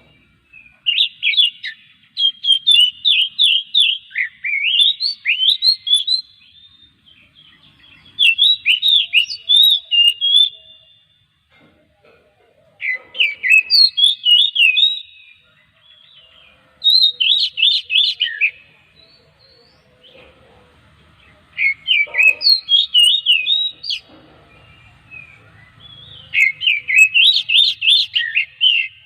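Oriental magpie-robin (kacer) singing in about six bursts of fast, rapidly varied whistled phrases, separated by short pauses.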